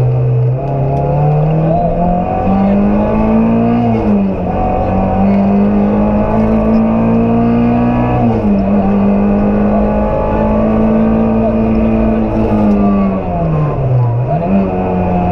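Rally car engine at full stage pace, heard from inside the cabin: the revs climb, drop quickly twice and hold high, then fall steeply near the end before climbing again.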